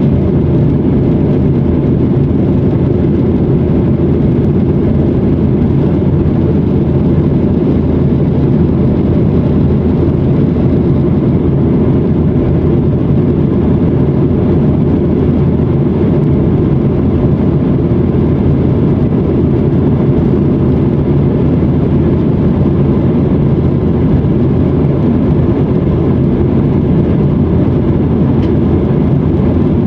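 Steady, loud jet airliner cabin noise: the engines and the rush of air over the fuselage, heard from a passenger seat during the climb after takeoff.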